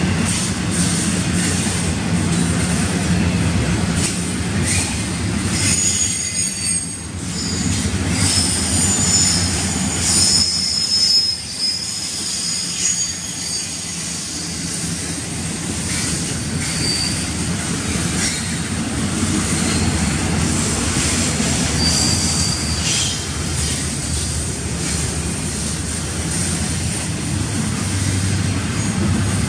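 Double-stack intermodal container cars rolling past on steel rails, a steady rumble and clatter of wheels on track. High-pitched wheel squeal comes in from about six seconds in for roughly ten seconds, and again briefly later.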